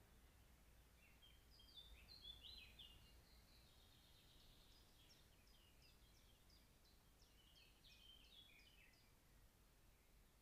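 Faint songbird singing: quick runs of short, high, mostly falling notes that come and go, over a faint low hum.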